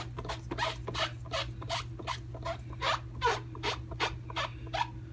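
A rubber stamp being scrubbed back and forth on a Simply Chamois cleaning pad to wipe off the ink, a quick run of rubbing strokes at about four a second.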